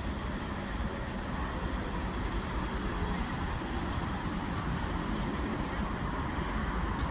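A train at a station: a steady rumble that slowly grows a little louder.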